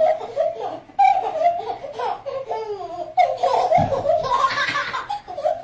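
A baby laughing, high-pitched and over and over.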